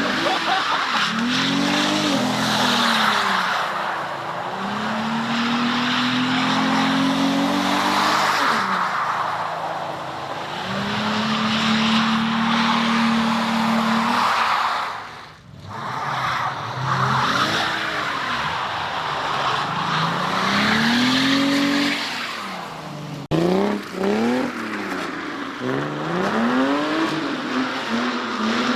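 Cars drifting: an engine revs up and down again and again while the tyres squeal and skid. The sound dips out briefly about halfway through.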